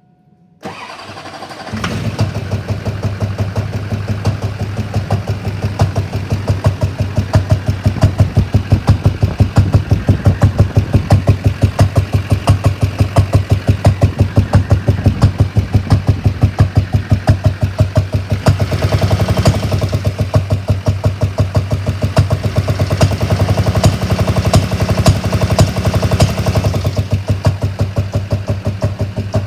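Duramax LB7 6.6-litre V8 turbodiesel cranked over and catching about two seconds in, then idling with a rapid, even diesel clatter that picks up a little for several seconds past the middle. The engine is run to show a funky intake sound that appeared after the upper intake boot clamp blew off under boost.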